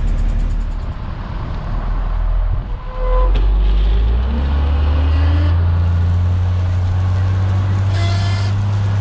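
DT466 diesel engine of an International S1900 single-axle dump truck running. Its note rises about three seconds in and then holds steady, with a short hiss near the end.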